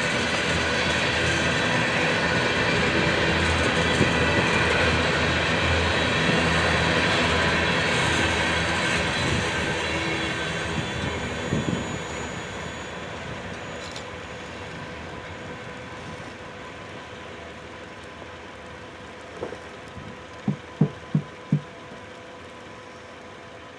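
Empty crude-oil tank cars of a freight train rolling past on the rails, loud at first and then fading steadily over the second half as the train moves away. Four sharp clicks come close together near the end.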